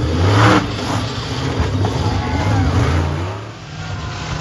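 Monster truck engine revving hard, its pitch rising and falling. There is a short loud burst about half a second in, and the engine eases off briefly near the end.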